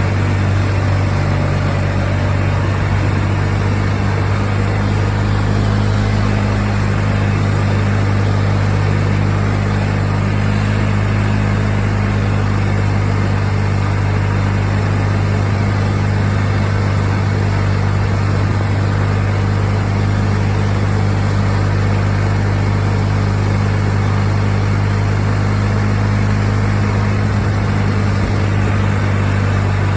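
A Craftsman II lawn tractor's 20 hp Kohler Magnum engine running at a steady, even speed.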